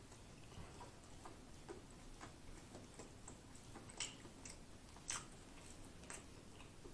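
Quiet closed-mouth chewing of a fried chicken sandwich: faint wet mouth clicks now and then, a few slightly louder ones about four, five and six seconds in.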